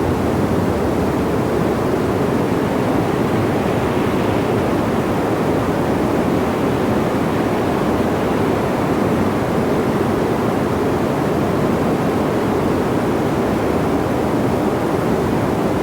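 Steady wind, a low rushing noise that swells slightly and eases back a few times.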